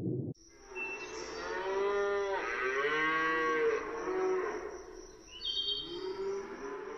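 Cow mooing: one long drawn-out call that rises and falls in pitch, then a shorter call near the end. A brief high chirp is heard about five and a half seconds in.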